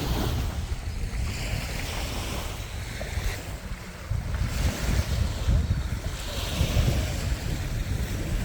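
Wind buffeting the microphone in gusts over the wash of sea water and waves.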